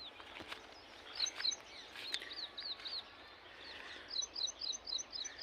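Small birds calling and singing in open fields: scattered short high chirps, then a fast run of doubled high notes from about four seconds in, over faint outdoor background noise.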